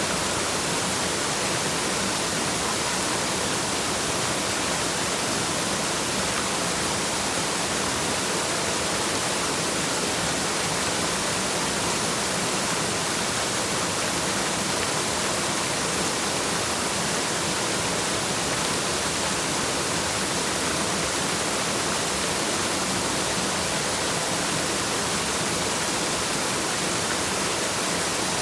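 Waterfall's water rushing and splashing in a steady, even hiss that never changes.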